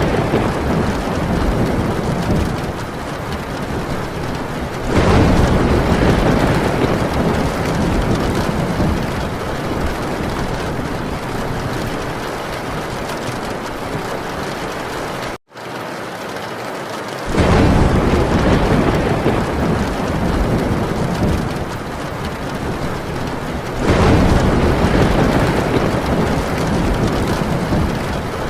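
Heavy rain drumming steadily on a tin roof, with rolling thunder: three long, deep rumbles swell up through the rain, near the start, about two-thirds through and near the end. The sound cuts out completely for an instant about halfway through.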